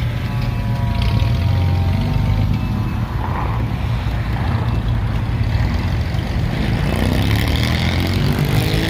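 Classic car engines rumbling as cars drive past, a deep steady running sound. The engine pitch falls at the start and climbs again about seven seconds in as an engine revs up.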